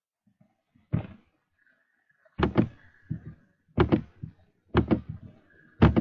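A series of sharp knocks or thumps, about five, most of them in quick pairs, starting about a second in.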